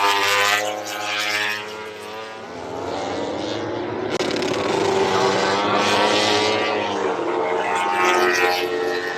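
Racing motorcycles passing at speed on a race circuit, several in turn, the engine pitch rising and falling as each goes by.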